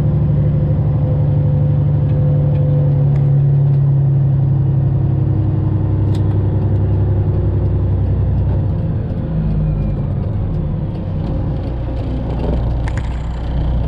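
Straight-piped Detroit diesel of a Freightliner Classic XL semi truck running at low speed while backing. The engine note holds steady for about eight seconds, then drops lower.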